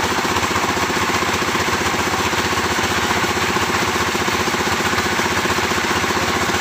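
A sawmill's engine running steadily at an even speed, with a fast, regular beat.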